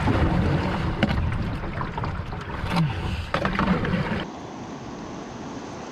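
River water splashing and rushing around a kayak, with a heavy low rumble and sharp splash-like knocks. About four seconds in, it cuts to a quieter, steady hiss of flowing water.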